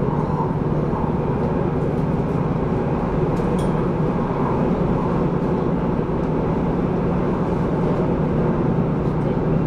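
Passenger car interior of an MTR West Rail Line SP1900 electric train running along the line: a steady rumble of the running train with a low hum underneath.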